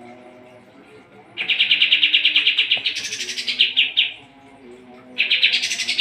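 Kapas tembak songbird singing two long, rapid chattering trills, each ending in a higher rising flourish; the first starts about a second and a half in, the second near the end.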